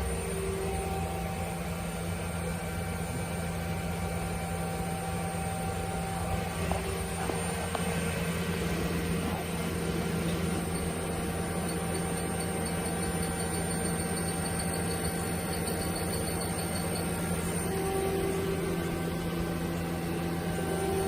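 A 2004 Yamazaki Mazak QTN-200M CNC lathe running on a test run: a steady machine hum with whining tones that drop in and out. A faint, quick, high ticking joins for several seconds in the middle.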